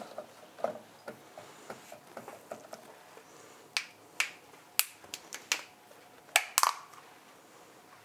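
A series of light clicks and taps as kitchen containers and utensils are handled, sparse at first, then louder and sharper from about halfway, with the loudest clicks near the end.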